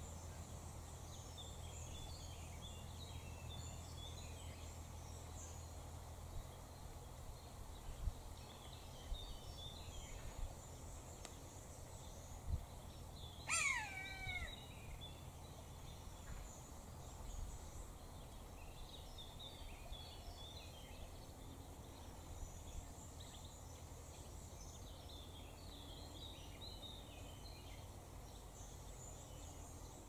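Quiet outdoor bird ambience: faint, scattered high chirps of small birds over a low steady rumble. About midway, one short bird call slides sharply downward in pitch.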